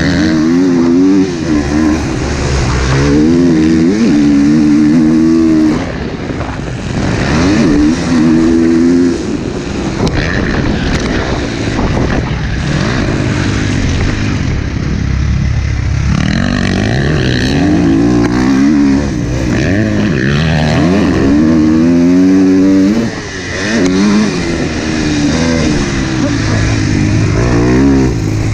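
Motocross dirt bike engine revving hard on the track. Its pitch climbs and drops again and again as the rider works through the gears and rolls off the throttle, with two brief lulls.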